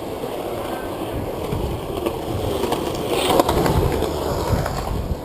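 Bicycle tyres rolling over pavement with low wind rumble on the GoPro's microphone, with small rattles and clicks scattered through it.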